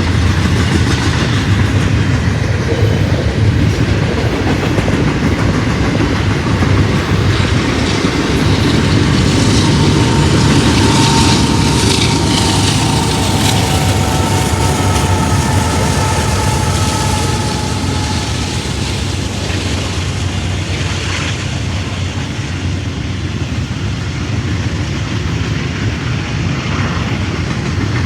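Train cars rolling past close by: a steady, loud rumble of wheels on rail with clickety-clack over the joints. A faint squeal from the wheels rises for several seconds around the middle.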